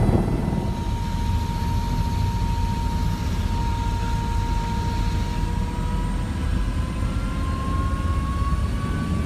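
Tour helicopter's turbine and rotor noise, a steady heavy rumble with a thin whine that slowly rises in pitch; it cuts off suddenly at the end.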